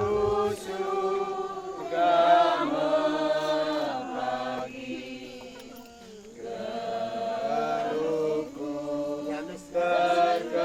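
A group of voices singing slowly together, holding long notes in phrases of about two seconds with brief breaks between them.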